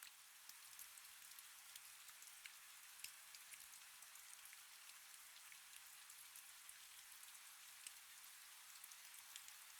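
Faint, steady rain: an even hiss with many scattered sharp drop ticks.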